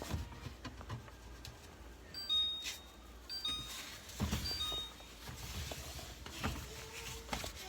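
Light knocks and rustles of food containers being handled in a refrigerator, with a few brief high beeps in the middle.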